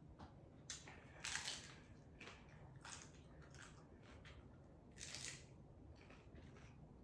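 A person chewing a mouthful of hard-shell taco: a run of short, irregular chewing and biting sounds, two of them louder, about a second in and about five seconds in.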